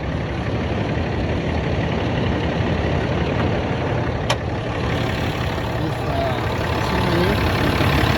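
2010 Dodge Ram 3500 engine idling, with a steady hissing under the dashboard like a gas leak, which the owner traces to a leaking hose in a line by the brake pedal. A single sharp click about four seconds in.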